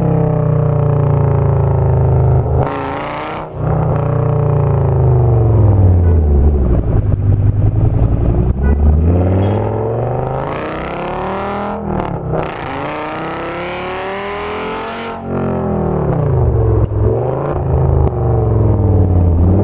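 Audi S8's V10 engine through a loud Meisterschaft aftermarket exhaust, revving up and down several times as the car accelerates and slows, with short bursts of harsher, hissier sound at the hardest pulls.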